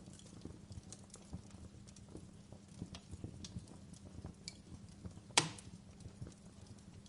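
Wood fire burning in a fireplace, crackling with scattered small snaps over a low rumble. One sharp, loud pop comes about five and a half seconds in.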